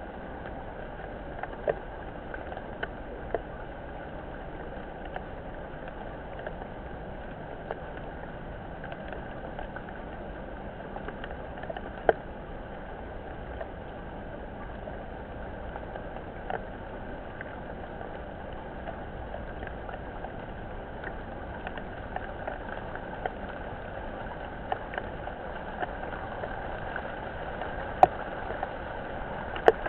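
Steady rain falling, with scattered louder drops ticking close to the microphone, the sharpest about twelve seconds in and near the end. The rain grows a little louder over the last few seconds.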